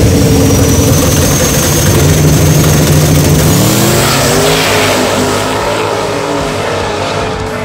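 Two drag-racing car engines rumbling loudly at the starting line, then launching about three and a half seconds in. Their revs climb sharply as they pull away, and the sound fades as they run off down the strip.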